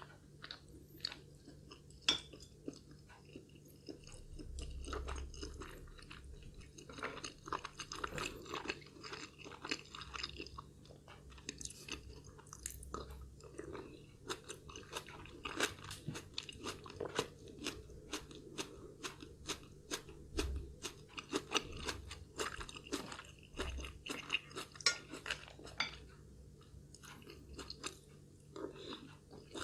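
A person eating close to the microphone: steady chewing with many short crunchy clicks, busiest in the middle stretch.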